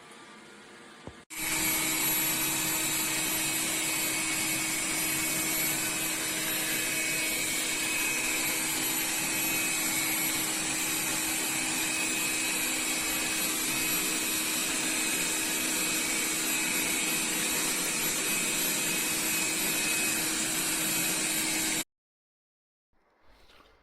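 Dreame D9 Max Gen2 robot vacuum's suction motor running with a steady whir and a constant low hum. It starts suddenly about a second in and cuts off abruptly near the end.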